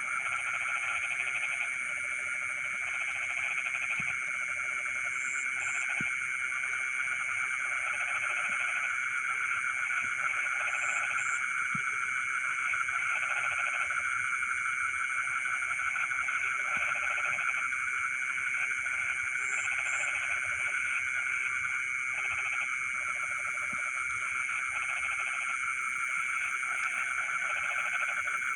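A night chorus of frogs calling in flooded rice fields, their calls pulsing in bouts every second or two over a steady, dense high trilling of insects.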